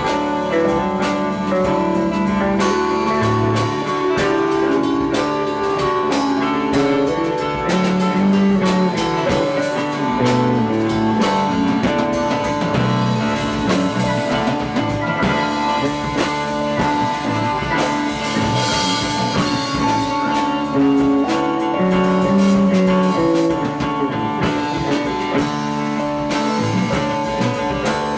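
Live rock band playing an instrumental passage on electric guitar, bass and drum kit, with a cymbal wash swelling about two-thirds of the way through.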